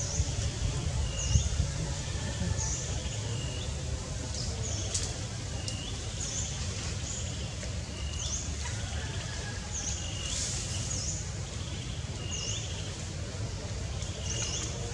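Forest ambience: a bird repeating short, high chirps about once a second, with some lower short notes, over a steady low rumble.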